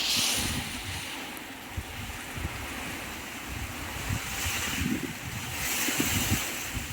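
Strong typhoon wind rushing and gusting, with low rumbling buffets of wind on the microphone; the gusts swell at the start and again twice in the second half.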